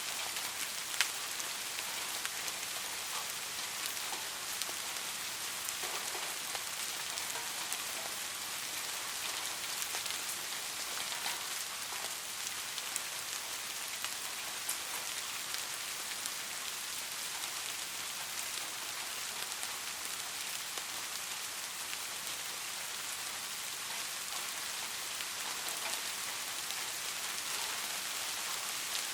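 Light rain falling steadily, an even patter with many small scattered drop ticks.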